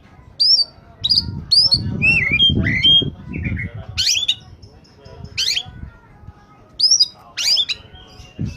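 Oriental magpie-robin singing in full, energetic song: bursts of loud, sharp whistled notes that sweep up and down, some slurred, with short pauses between phrases. A low murmur sits beneath the song.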